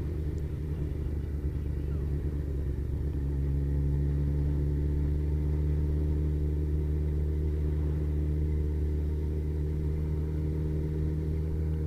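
Kawasaki ZZR1400 inline-four engine running at a steady cruise, a constant low drone with a slight change in pitch a few seconds in.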